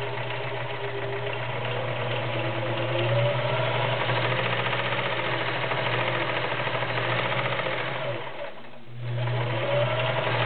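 Kenmore model 1946 all-metal convertible sewing machine running steadily as it stitches fabric. Its electric motor hums under the needle's fast rhythmic clatter. It stops briefly about eight and a half seconds in, then starts sewing again.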